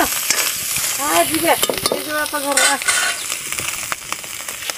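Shelled snail meat sizzling as it fries in oil in a metal wok, stirred with a metal spoon. A few short pitched voice sounds come in between, about a second in and again just past the middle.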